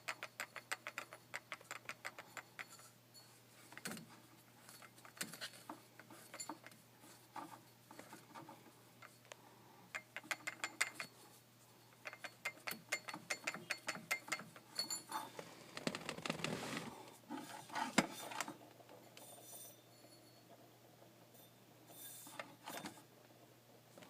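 Failing power steering pump on a Porsche Boxster 986 making a rapid, irregular clicking and ratcheting noise in clusters over a steady low hum, with a louder, rougher stretch about sixteen seconds in.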